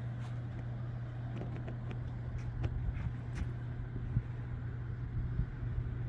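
Steady low mechanical hum with a few faint clicks and taps scattered through it.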